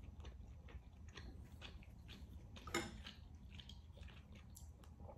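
Close-miked chewing of rare beef tenderloin: soft, wet mouth clicks and smacks at an uneven pace, with one sharper click a little before the middle.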